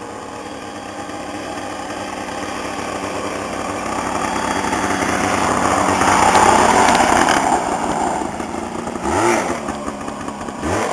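Modified lawn tractor's engine running at speed, growing louder as it approaches and passes about six seconds in, then fading. Near the end the engine note rises briefly twice.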